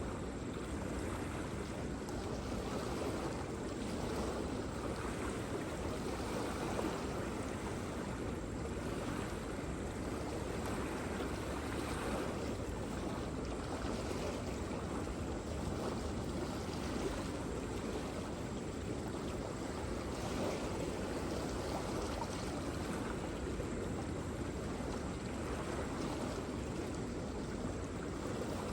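Waterfall: a steady rush of falling water, even and unbroken, deep-toned.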